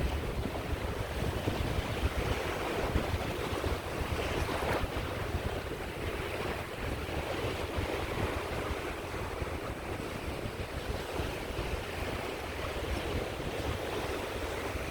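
Small sea waves washing on a shore, a steady surf with a brief swell of breaking about a third of the way in, and wind buffeting the microphone with a low rumble.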